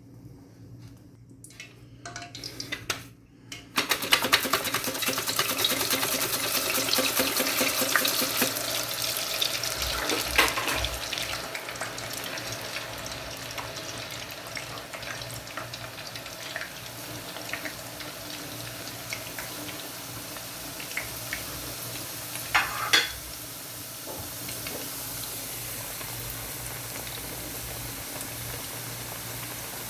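Food frying in hot oil: a sudden loud crackling sizzle starts about four seconds in and eases to a steadier, quieter sizzle after about eight seconds. A few knocks come through it, the loudest a little after twenty seconds.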